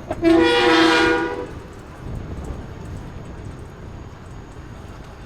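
A vehicle horn sounds once, a loud blast of several tones together lasting a little over a second, over a steady low road and engine rumble.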